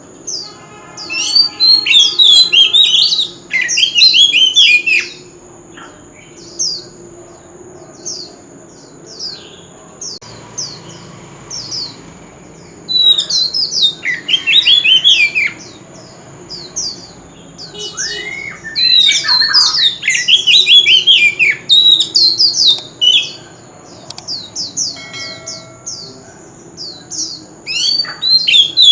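Oriental magpie-robin singing: loud bursts of quick whistled and scratchy phrases, several seconds long, separated by pauses with scattered short notes. A steady high whine runs under the song.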